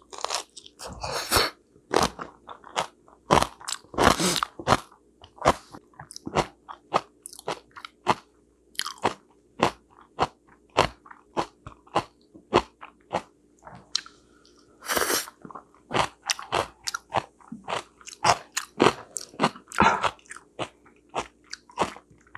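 Close-miked chewing of steamed sweet potato and fresh napa cabbage kimchi: wet mouth clicks and smacks with crunching, several strikes a second.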